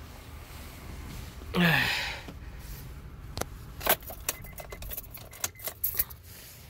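A bunch of car keys jangling, with sharp metallic clicks and ticks for several seconds as the ignition key is turned off and handled.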